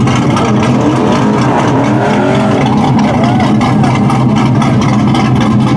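Car engine running loudly and steadily at a constant speed, without revving, with voices chattering faintly in the background.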